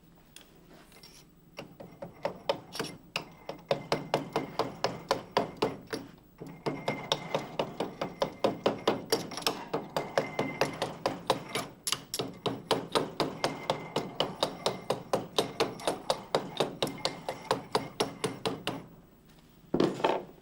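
Rapid, repeated hammer blows on the metal parts of a COP 1838 rock drill's gearbox, about three to four strikes a second, with a short break about six seconds in. A brief louder noise comes near the end.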